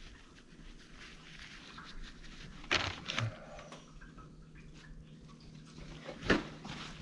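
Hands working on a greasy CV axle assembly: faint rustling and handling noise, with two sharp knocks close together about three seconds in and a louder knock near the end.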